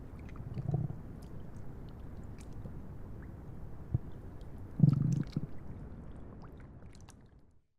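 Stomach gurgles and rumbles over a steady low hiss of rain, with a louder gurgle about five seconds in; the sound fades out just before the end.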